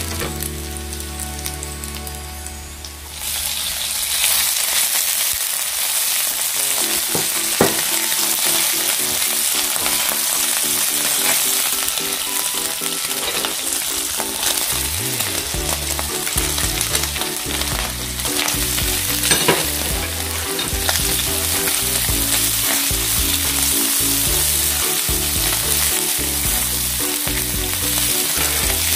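Garlic and bacon frying in olive oil in a frying pan, stirred with a silicone spatula: a steady sizzle that gets louder about three seconds in, with a few sharp taps of the spatula.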